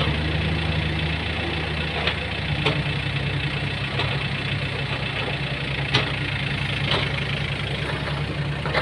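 Heavy truck engine running steadily at low revs, with a few sharp clacks at irregular intervals, the loudest about six seconds in. The clacking is a noise of unknown origin that the speaker wonders about.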